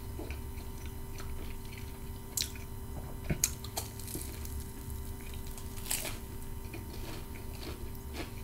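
Close-up chewing of a fried pepperoni cheese bite, with wet mouth sounds and a few sharp crunches.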